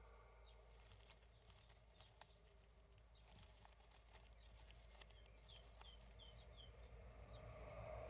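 Mostly near silence, with faint scratching and rustling as a common starling shifts on its straw nest. A little past halfway a bird gives four short high chirps, each dropping at the end, about a third of a second apart.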